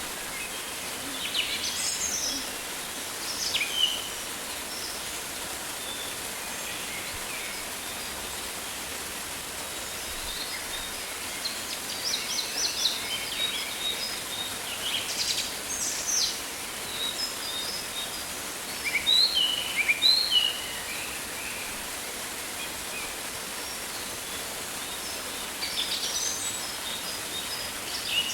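Rainforest ambience: a steady, even hiss with birds calling on and off above it in scattered chirps and whistles. About two-thirds of the way through there is a run of short falling whistles.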